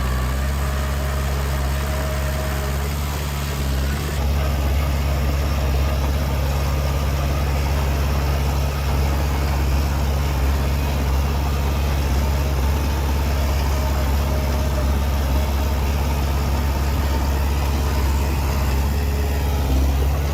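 Heavy diesel engine of earthmoving machinery running steadily at a low, even speed, getting a little louder about four seconds in.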